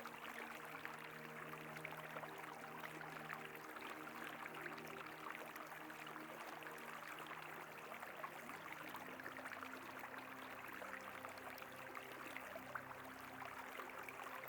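Faint, steady rush of a flowing river under soft sustained background music tones. The held tones change to a new chord about nine seconds in.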